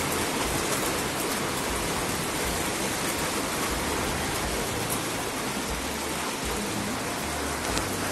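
Steady rain pouring down, an even, unbroken hiss of a downpour.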